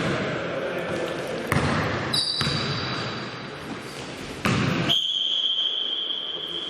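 Basketball bouncing on a hard court during a game, with sharp thuds about a second and a half in and again about four and a half seconds in over a continuous hall background. Steady high-pitched tones hold through the second half.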